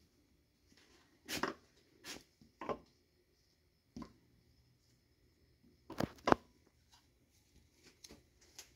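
Scattered sharp clicks and knocks of metal engine parts and tools being handled while pistons are fitted into an engine block: about half a dozen separate knocks, the loudest pair close together a little past the middle.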